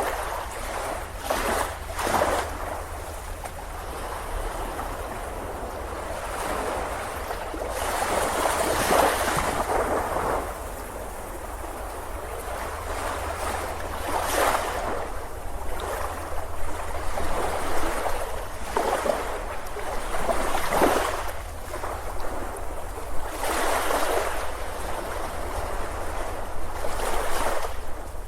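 Ocean surf on a beach: waves break and wash in, swelling into a louder rush every few seconds, over a steady low rumble.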